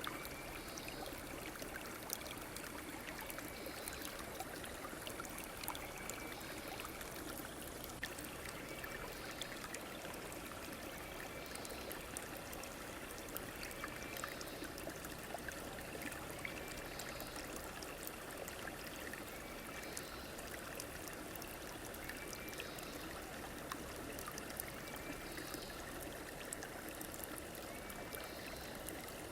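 A river or stream flowing steadily, with water trickling and gurgling. A short high call repeats about every two seconds over the water.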